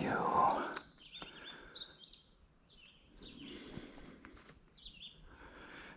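A songbird singing outdoors: a quick run of short, high notes about a second in, then a single high note near the end.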